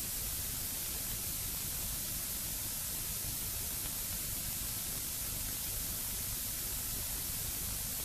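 Steady hiss of an old analogue film soundtrack during a silent stretch, even and unchanging with no other sound.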